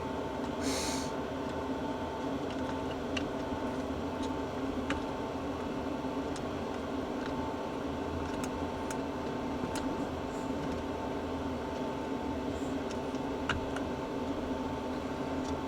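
Steady electrical hum with a faint high tone, broken by a few light clicks and a brief rustle about a second in.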